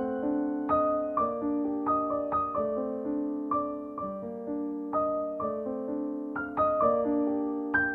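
Background music: a soft piano melody of struck notes that ring and fade, played at a gentle, even pace.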